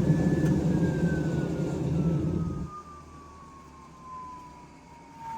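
A motor switched off and spinning down: its whine glides slowly and steadily down in pitch. A loud low rumble cuts off suddenly about two and a half seconds in.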